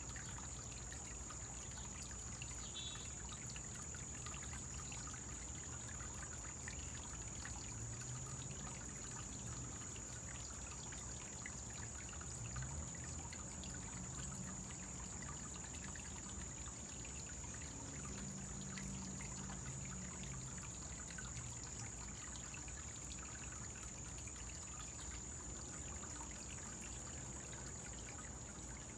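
Small koi-pond waterfall trickling steadily, with a steady high-pitched tone above it.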